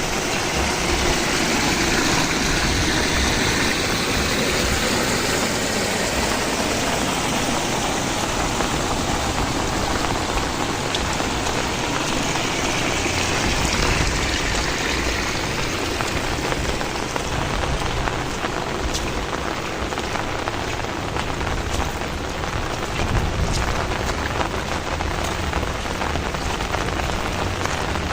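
Heavy rain falling steadily, with sharp separate drop hits standing out more in the second half.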